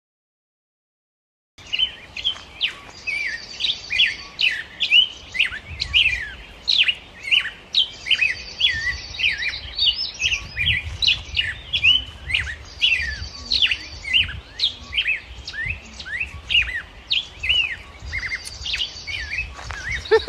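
Birds chirping: a fast string of short, down-slurred chirps, a few a second, with a buzzy trill every few seconds, over a low rumble. It starts about a second and a half in.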